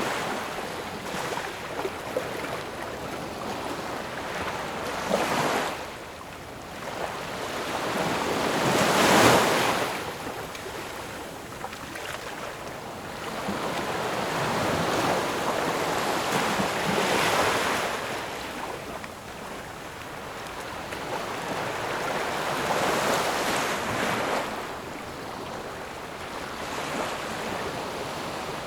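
Ocean waves breaking, the surf swelling and easing every several seconds, with the loudest wave about nine seconds in.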